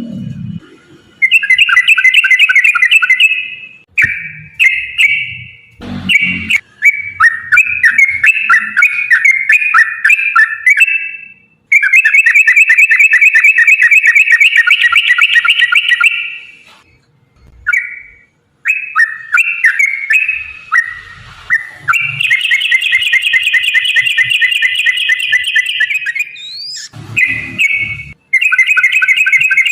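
Yellow-vented bulbul (trucukan) singing rapid, bubbly chattering phrases in long runs of several seconds with short breaks between them. A few low thumps sound under the song, one about six seconds in and two near the end.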